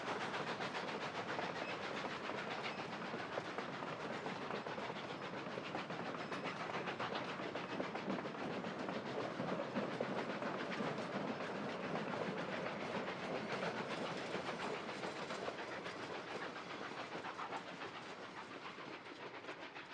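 Narrow-gauge steam train's cars rolling past, the wheels clicking steadily over the rail joints, slowly fading toward the end.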